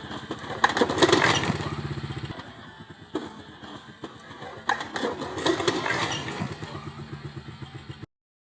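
Small off-road vehicle engine running and revving, with two louder rev-ups, about a second in and again around five seconds in, before the sound cuts off abruptly near the end.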